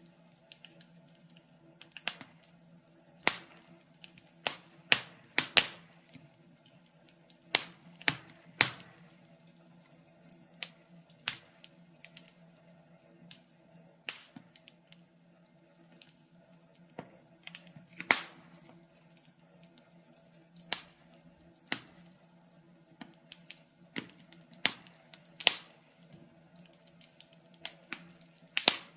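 Wood fire in a fireplace crackling: irregular sharp pops and snaps at uneven intervals, some much louder than others, over a faint steady hum.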